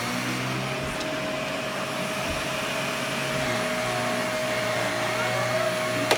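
Vacuum cleaner running steadily, a continuous motor whine over airflow noise, with a sharp click just before the end.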